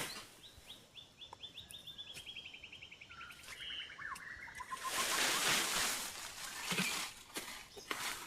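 A songbird sings a fast trill of short notes that slides down in pitch over about three seconds, followed by a few lower notes. Then a louder rustling noise lasts about a second and a half, with scattered clicks.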